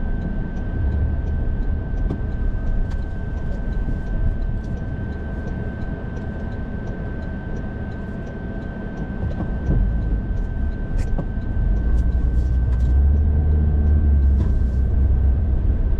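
Car cabin noise while driving: low engine and road rumble that grows louder over the last few seconds. A faint steady high tone and light regular ticking, about two a second, run under it.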